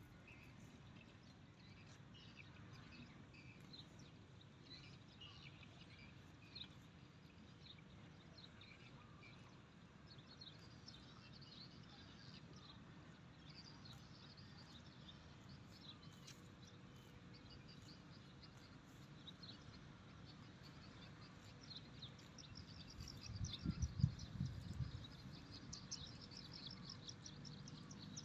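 Faint outdoor ambience with small birds chirping throughout, the chirps coming quicker and denser in the last few seconds. A short spell of low bumping noise comes about 23 seconds in.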